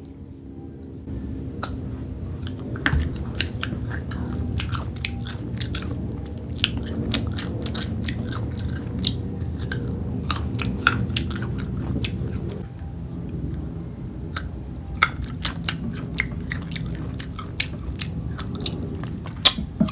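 Close-up chewing and biting of crisp unripe green mango: a long string of sharp crunches and wet clicks. Under it runs a steady low hum that drops off about two-thirds of the way through.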